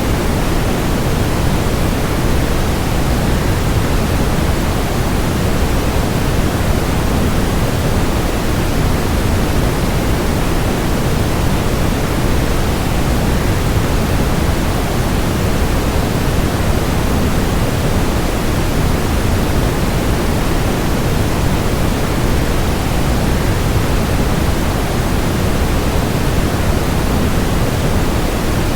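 Waterfall rushing as a steady, unbroken noise, heaviest in the low end and fading toward the highs, with no change over the whole stretch.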